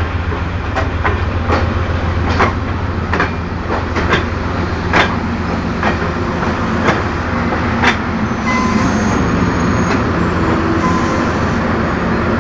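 Passenger train rolling slowly into the station: its wheels click over rail joints with a steady low rumble, and the clicks come further apart as it slows. From about eight seconds in, a thin high squeal joins in as it brakes to a stop.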